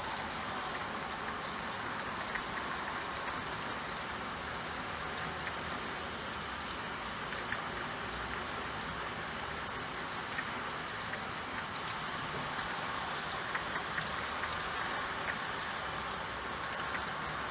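Steady rain falling, with scattered individual drops ticking over an even hiss.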